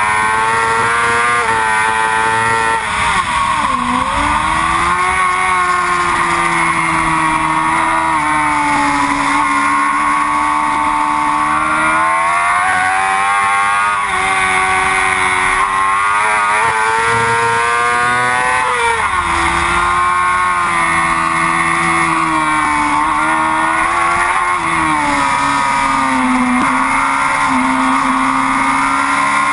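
Yamaha R6 inline-four sport-bike engine racing at high revs, its pitch climbing and falling through gear changes and corners, with sharp drops in pitch a few seconds in, about two-thirds of the way through and again soon after.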